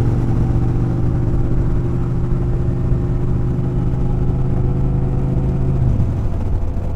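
A vehicle engine running at a steady speed over low road and wind rumble, its tone dropping and changing about six seconds in.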